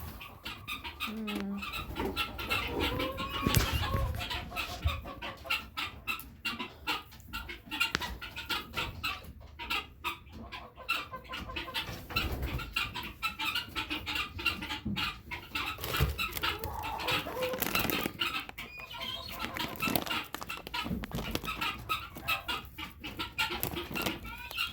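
Chickens clucking steadily with many short calls, mixed with scattered clicks and rustles.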